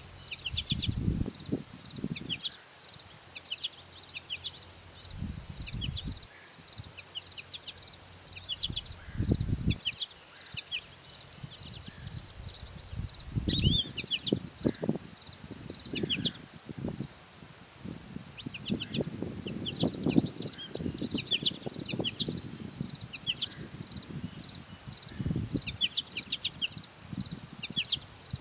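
Outdoor garden ambience: a steady, high, rapidly pulsing chorus of insects, with small birds giving short, repeated downward chirps throughout. Irregular bursts of low rumble come and go.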